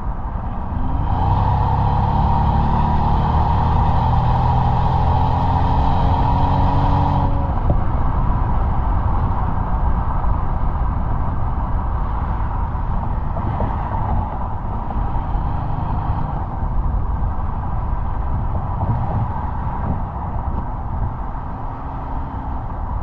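A 2005 Mercedes-Benz SL600's twin-turbo V12 exhaust under hard acceleration for about six seconds, its pitch climbing steadily. About seven seconds in, the throttle eases and the engine runs on more quietly and evenly under road noise.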